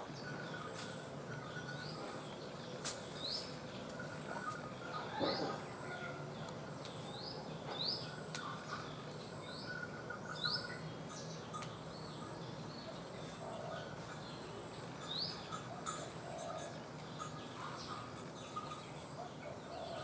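Wild small birds calling: about ten short rising chirps at irregular intervals, with softer chirps from other birds behind them. A single sharp click about three seconds in.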